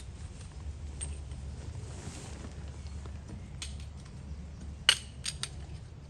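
A few sharp metallic clinks, like camp cookware or a cup being handled, about halfway through and near the end, over a steady low rumble.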